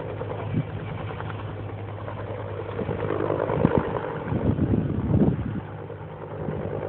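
Helicopter engine and rotor running as a steady hum, growing louder for a couple of seconds in the middle.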